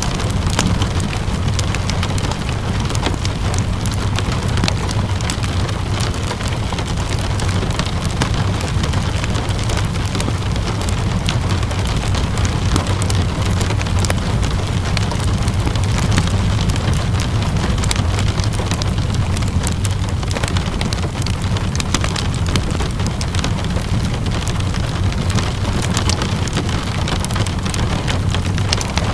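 Steady rainfall with a constant low rumble, mixed with frequent small pops and crackles from a wood fire burning in a fireplace.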